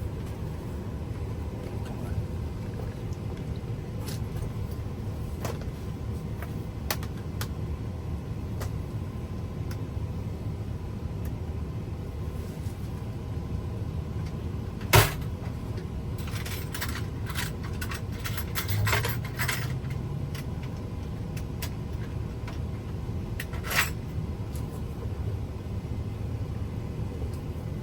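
Sharp metallic clicks and small knocks from keys and a lock being handled, loudest about halfway through, with a cluster just after and one more near the end. A steady low rumble runs underneath.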